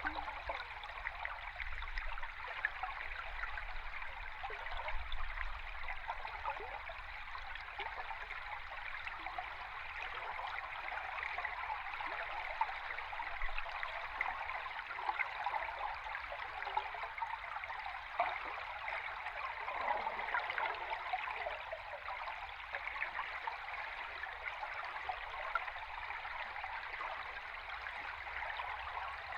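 A river stream recorded underwater: a steady rush of flowing water, thick with small bubbling and crackling, over a low rumble.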